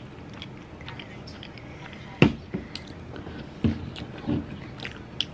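Close-up chewing and mouth sounds of a person eating spicy noodles. A sharp click about two seconds in is the loudest sound, followed by a few softer thumps.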